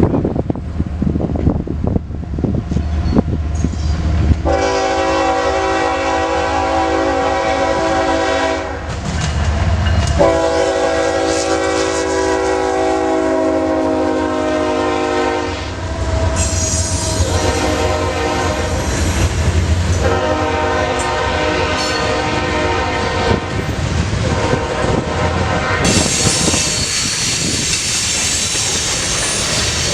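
Norfolk Southern manifest freight train passing, its locomotive horn sounding four long chord blasts over the low rumble of the diesel engines. Near the end, wheels clattering and hissing on the rails take over.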